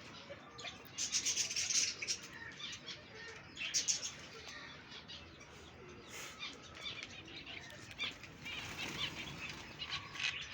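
Flock of budgerigars chirping and chattering in bursts, with wings flapping.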